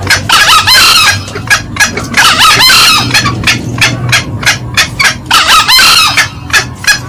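Green junglefowl calling, male and female, as a loud lure recording. Quick short cackling notes come about four a second, broken three times by denser bursts of calls.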